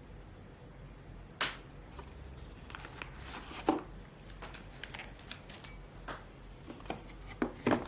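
Handling noises: scattered light clicks, taps and rustles of small objects being moved, with a sharper tap about a second and a half in and louder knocks near four seconds and near the end.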